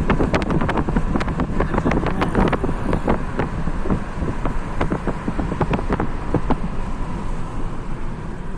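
Wind buffeting the microphone as a rough low rumble, with many sharp clicks and knocks, thickest in the first three seconds.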